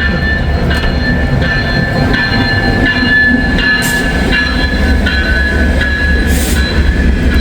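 Train rolling past close by: a steady low rumble with high wheel squeal tones that start and stop about every second.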